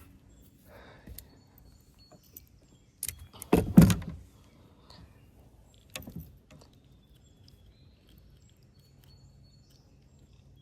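A few hollow knocks and thumps against a kayak, the loudest cluster just under four seconds in and another single knock about six seconds in, over a faint steady hum.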